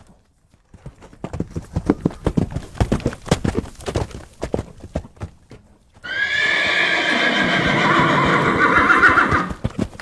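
Horse hooves clopping in a quick, even rhythm for several seconds, then a single loud, long whinny that starts abruptly about six seconds in and fades out near the end.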